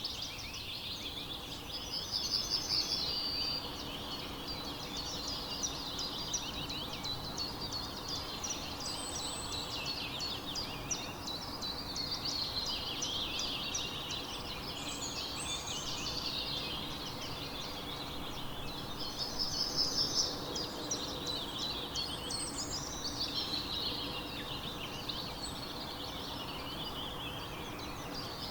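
Many small birds chirping and singing at once, a dense chorus of high chirps and trills with a few louder bursts of song.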